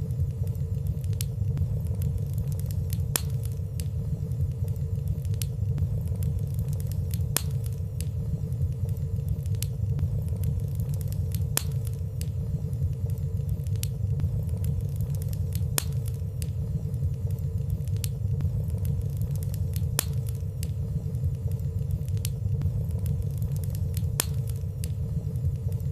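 Fire burning in a fireplace: a steady low rumble of flames with frequent small, faint crackles and no loud pops. A faint steady hum runs underneath.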